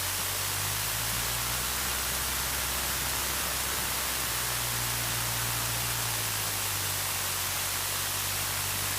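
Steady hiss from the aircraft's intercom audio feed over a low, even drone from the Cessna 152's engine running on the ground.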